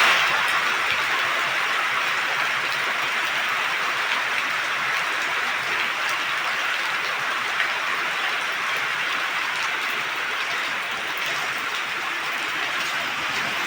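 Heavy rain falling in a steady, dense hiss, with faint scattered drop ticks.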